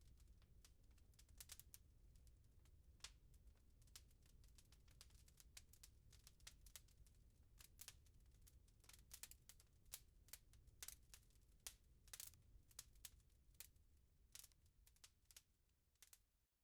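Faint wood fire crackling in a fireplace: irregular sharp pops and snaps over a low steady rumble, with the sound briefly dropping away near the end.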